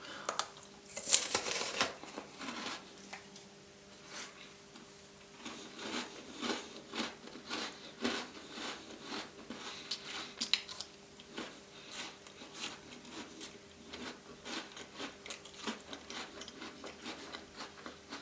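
Close-up eating sounds of chocolate-coated Tim Tam biscuits: a louder bite about a second in, then a long run of small crunching and smacking chewing sounds.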